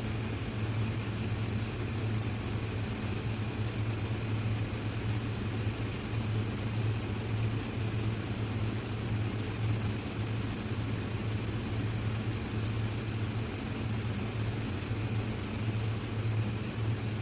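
A steady low mechanical hum, like a motor running nearby, holding an even level throughout.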